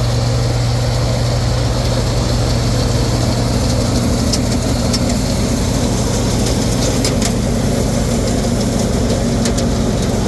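Combine harvester engine running steadily, with a few faint sharp ticks in the second half.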